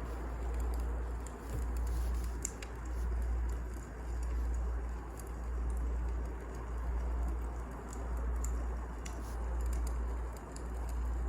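Wood fire burning in a fireplace: scattered sharp crackles and pops over a steady hiss, with a deep low rumble that swells and fades about every second and a half.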